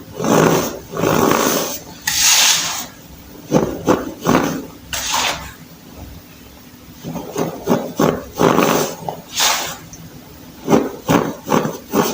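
Clumps of baking soda crushed and crumbled, about a dozen crunches in uneven succession, with a pause of a second or so midway.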